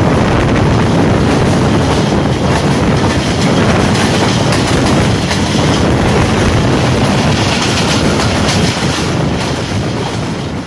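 Pakistan Railways express train's passenger coaches running at speed, heard from an open coach window: a steady loud rumble and rush with the wheels clattering over the track. The sound begins to fade away near the end.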